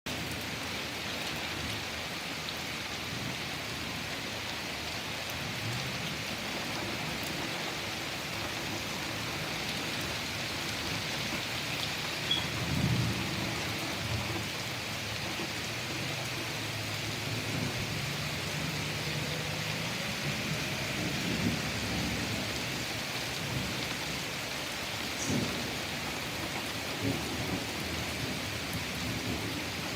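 Steady rain falling, with low rolls of thunder rumbling through it; the loudest rumble comes about twelve seconds in, and smaller ones follow later.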